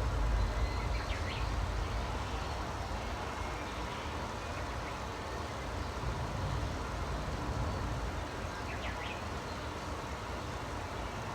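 Birds chirping briefly, a short call about a second in and another near the end, over a steady low rumble that eases after the first few seconds.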